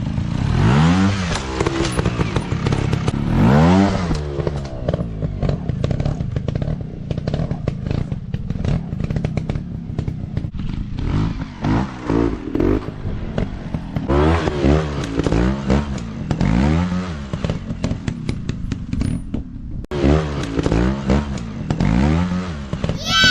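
Dirt bike engine revved up and down over and over as the throttle is blipped, with clattering and knocking from the bike working over rough ground.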